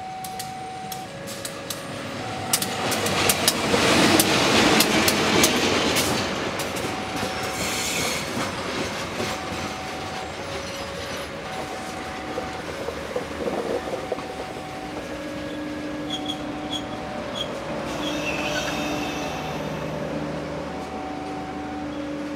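Diesel locomotive passing close by, loudest a few seconds in, followed by its passenger coaches rolling past with rapid clicks of wheels over rail joints and a few short high wheel squeaks later on. A two-tone alarm keeps repeating, alternating a higher and a lower note.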